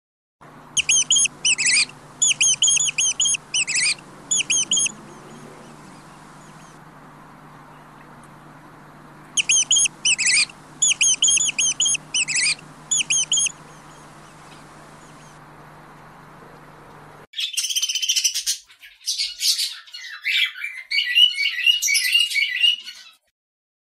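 Rapid high chirping calls in short bursts over a steady low hum, with the same run of chirps heard twice about nine seconds apart. From about seventeen seconds in, the hum stops and budgerigars chatter and warble in varied chirps.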